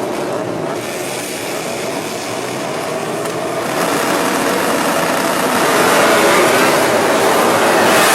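Ducati Desmosedici GP racing motorcycle's V4 engine running loud, getting louder about four seconds in and again near six seconds.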